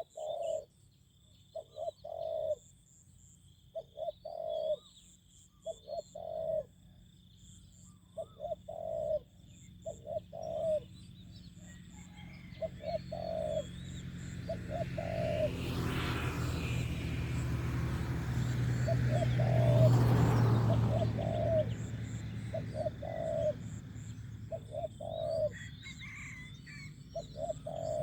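Spotted doves cooing: short phrases of two or three deep coos, repeated every couple of seconds. In the middle a low rumbling noise swells over several seconds and fades, briefly covering the coos.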